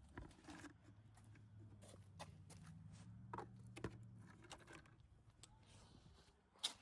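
Near silence: a faint low hum for a few seconds, with scattered light clicks and one sharper click near the end.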